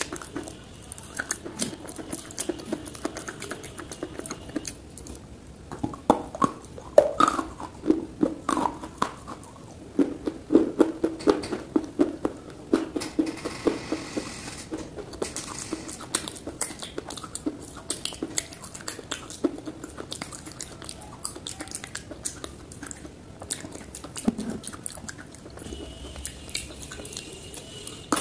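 A person chewing dry clay lumps close to the microphone: a steady run of small crackling crunches, thickest in the middle.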